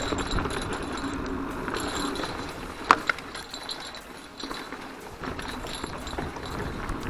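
Mountain bike rolling along a trail: steady tyre and ride noise with a light rattle of the chain and bike parts, and one sharp metallic clink about three seconds in.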